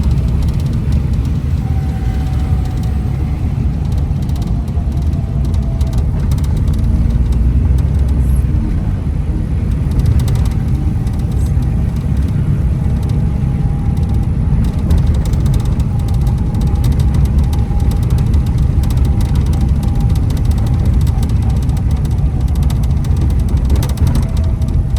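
Steady low rumble of motor vehicle traffic, with a faint high whine drifting in and out.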